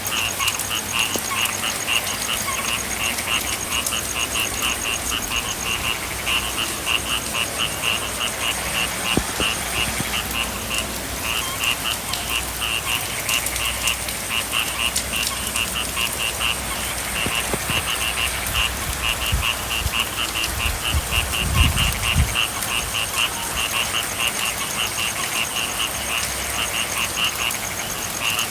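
Frog chorus, many frogs calling in fast, rhythmic trills that keep overlapping, over a steady hiss of rain. A brief low rumble comes about 21 seconds in.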